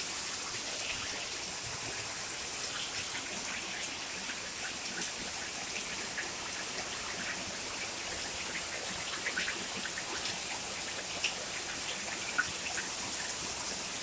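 Heavy rain pouring down: a steady hiss with many scattered sharp drop hits close by.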